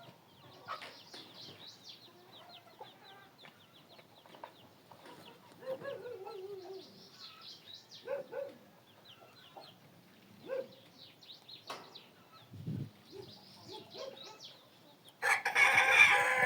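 Chickens clucking in short low calls amid many high, quick chirps; about fifteen seconds in a rooster crows loudly for nearly two seconds.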